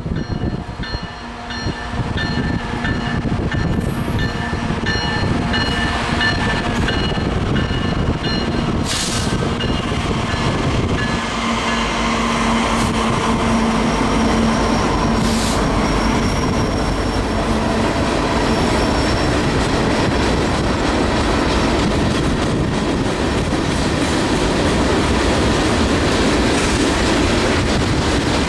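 BNSF freight train passing close by. Steady locomotive engine tones at first give way to the loud, continuous rumble and clatter of the rolling cars.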